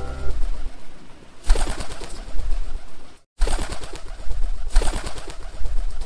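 A cartoon bird sound effect, rustling and rising in swells, with a brief cut-out just after three seconds in.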